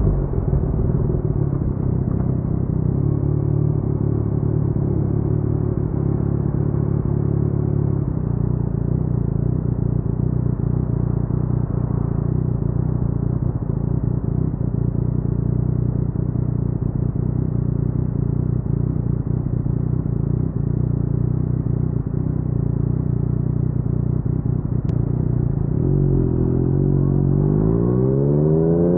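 Yamaha MT-09's crossplane three-cylinder engine running through an Akrapovic carbon full-system exhaust at low speed, with a steady low note. Near the end the pitch climbs as the engine revs up under acceleration.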